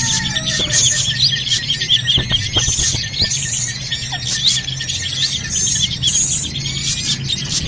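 A dense chorus of birds chirping and calling over one another, with quick whistled upslurs and rapid repeated notes. It is a bird-lure recording of noisy srigunting (drongos). A low steady hum lies under it.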